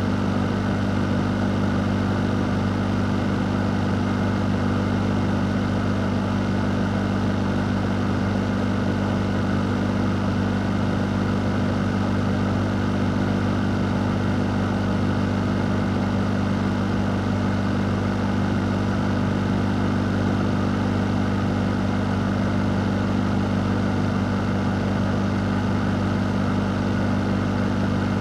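Electric fan motor running steadily: a constant low hum under an even rush of moving air, with no change in speed.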